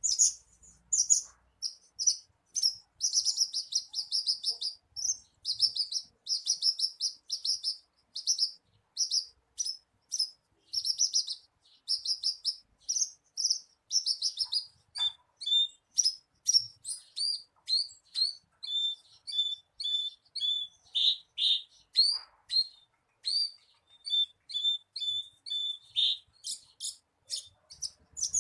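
Javan bush lark (branjangan) singing a long, unbroken song of rapid high chirps and trills. About halfway through it shifts to a run of repeated lower notes, then returns to quicker chirping near the end.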